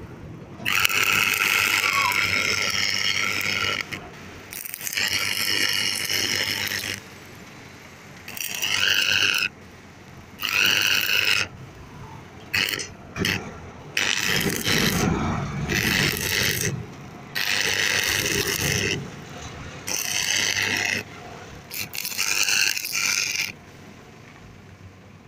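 Stick arc welding on a freshly repaired arc welding machine. The electrode strikes and burns with a crackling hiss in about nine bursts of one to three seconds, with short pauses between them.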